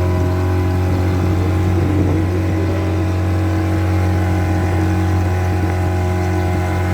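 Speedboat engine running steadily at an even pitch.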